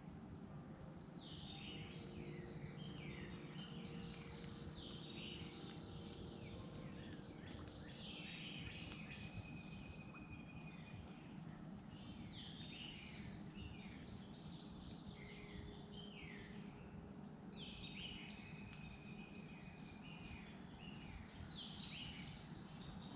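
Several wild birds singing, quick falling chirps and short whistled phrases repeating every second or so. Underneath runs a steady high insect drone and a low rumble of outdoor background noise.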